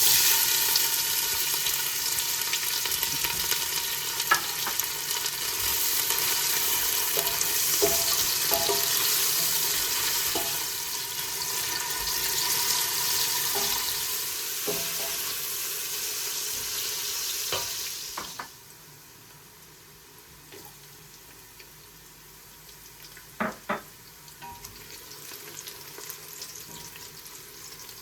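Food sizzling as it fries in a pan, with a few utensil clinks, until the sizzle cuts off sharply about two-thirds of the way through. After that, a quiet stretch with a few kitchen knocks.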